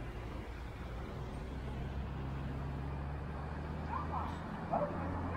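A car engine running at low speed, heard as a steady low hum. Near the end there are a few short yelps, like a small dog barking.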